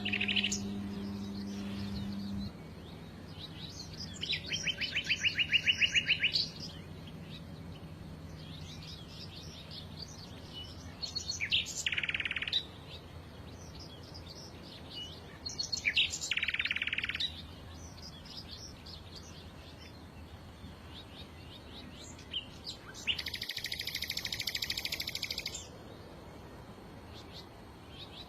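Small songbirds singing in separate phrases, with softer chirps between them: a fast trill a few seconds in, short buzzy bursts around the middle, and a longer buzzy phrase about two-thirds of the way through. A low hum is heard in the first couple of seconds.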